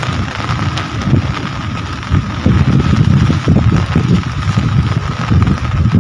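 Steady rain falling as an even hiss, with a low, uneven rumble underneath that grows louder about two seconds in.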